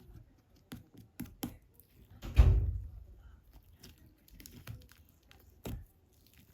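White cream slime being handled and pressed by hand, giving a string of small sticky clicks and squishes, with one louder, heavier squelch about two and a half seconds in.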